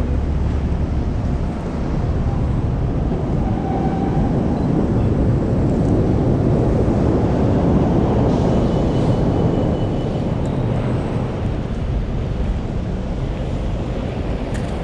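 Blizzard wind buffeting the microphone: a loud, steady rushing roar, heaviest in the low range.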